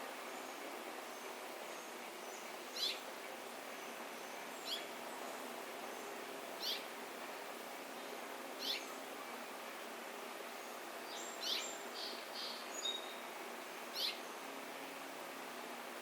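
A songbird giving short, high, downward-sliding calls about every two seconds, with a quick run of several notes a little past the middle, over a steady background hiss.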